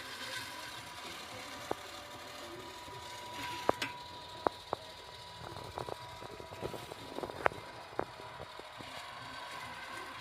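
Irregular sharp clicks and taps, as of small parts and tools being handled at a workbench, over a steady faint hum with a thin high tone.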